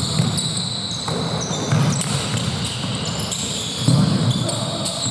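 Basketball game sounds in a gym: the ball bouncing on the court with low thuds, the strongest about four seconds in, and sneakers squeaking in many short high-pitched squeaks.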